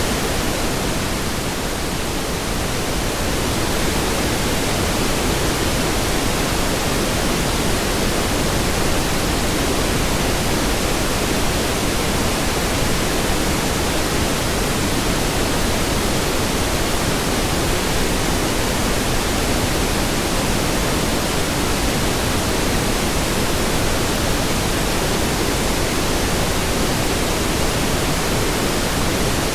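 Pink noise: a steady, even hiss spread across the whole range, dipping slightly in its upper part about two seconds in.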